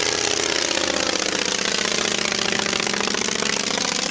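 Piston engine running close by with a fast, rattling firing beat; its pitch sags slightly and then rises again near the end.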